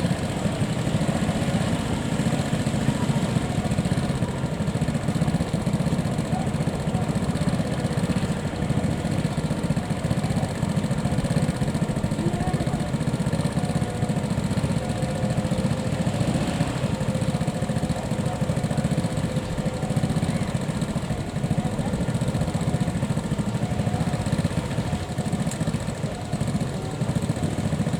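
Engines idling steadily, with faint voices.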